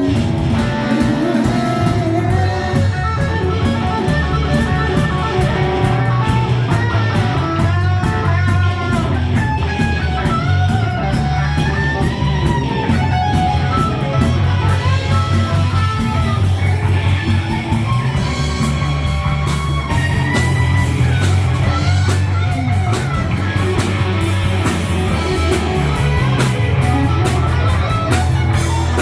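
Rock music with a lead electric guitar playing bending melodic lines over a steady, driving bass.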